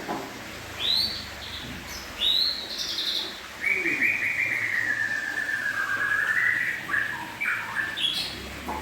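Birdsong: a few short high chirps, then a long wavering warbled call lasting about three seconds, followed by several shorter notes.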